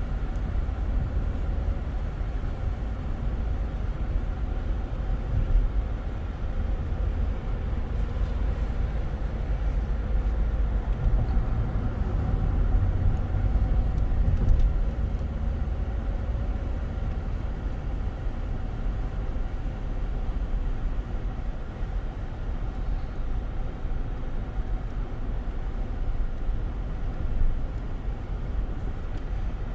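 Steady low rumble of road and engine noise inside a car cruising at speed.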